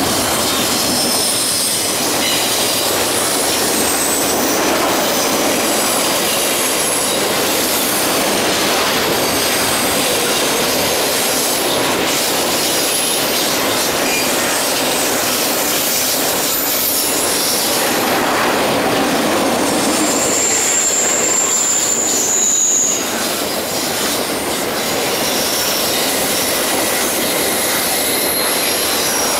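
Double-stack intermodal container train rolling past on a curving track: a steady rumble of wheels on rail, with short high-pitched squeals from the wheels coming and going, the clearest about two-thirds of the way through.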